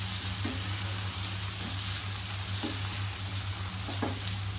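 Dal mash (cooked urad lentils) sizzling and frying in a nonstick pan while a spatula stirs it, with a few light knocks of the spatula against the pan. A steady low hum runs underneath.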